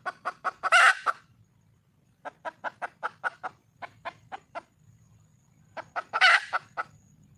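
Junglefowl hen calling for a male: runs of quick clucks, about five a second. Two of the runs build into a loud drawn-out squawk, one about a second in and one near the end.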